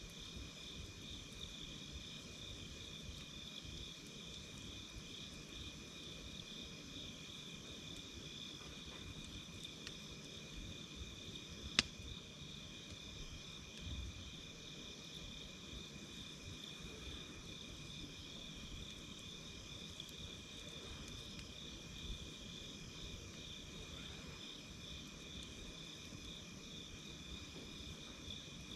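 A steady chorus of night insects in two high pitches, the higher one pulsing fast, over the low hiss and faint crackle of a campfire. A single sharp pop about twelve seconds in.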